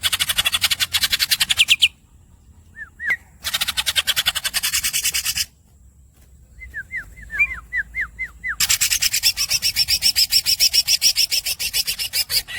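Green leafbird (cucak ijo) singing: three long, fast rolling trills of rapidly repeated notes, broken up by short squeaky notes that fall in pitch.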